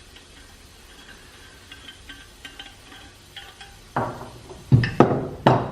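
Metal parts or tools being handled on a workbench: faint light clinks, then four sharp, ringing knocks in the last two seconds.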